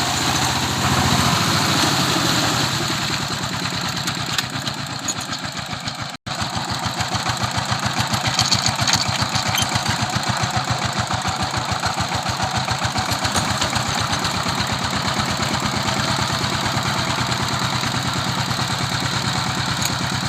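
Tractor engine running steadily with an even, rapid pulse, cutting out for an instant about six seconds in.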